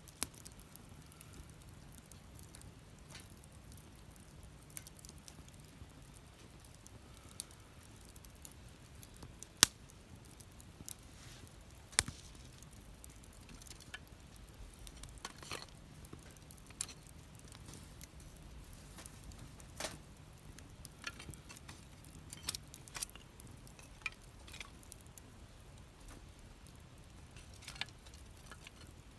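Wood fire burning in a fire pit, crackling with scattered sharp pops; two louder snaps about ten and twelve seconds in.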